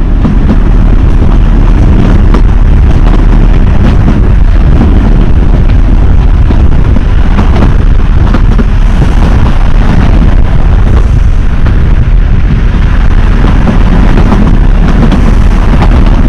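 Loud, steady rumble of a narrow-gauge train on the move.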